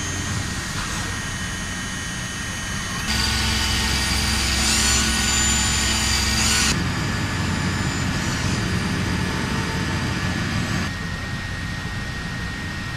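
Steady industrial machinery noise, a constant hum with a few high steady whines, changing abruptly to a louder, brighter sound about three seconds in and back again about seven and eleven seconds in.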